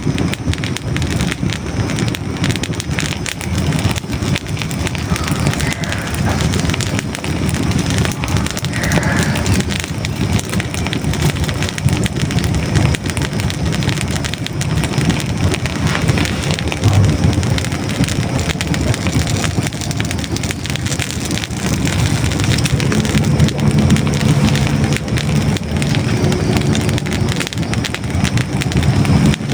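Hardwood logs burning in a fireplace: dense, irregular crackling and popping over a steady low rumble of the flames.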